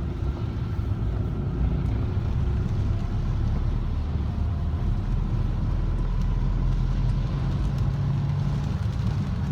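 Car engine and tyre rumble heard from inside the cabin while driving: a steady low drone on a rough road.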